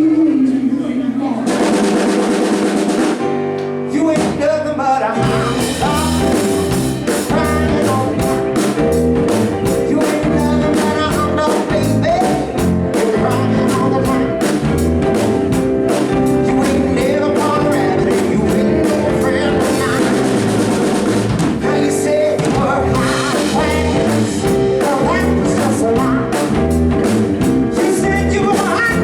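Live band of keyboard, bass and drum kit playing an instrumental break in a rock and roll song, with a steady driving beat that fills in after a short lead-in a few seconds in.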